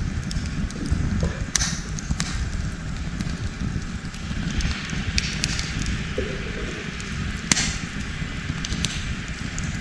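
Wood campfire burning, crackling with sharp pops every second or two over a low steady rumble.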